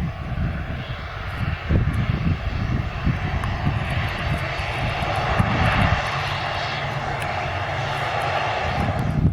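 Airliner engines running as the aircraft passes, a steady rushing noise that swells about four seconds in and cuts off suddenly at the end.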